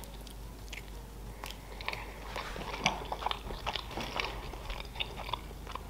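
Close-miked mouth sounds of a person biting into and chewing a piece of spicy salmon sushi: soft, irregular clicks and smacks of chewing.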